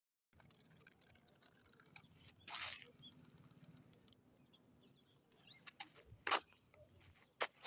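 Faint rustling and scattered small clicks over low background noise, with a few short louder rustles, the strongest about two and a half seconds in and again near six and seven and a half seconds.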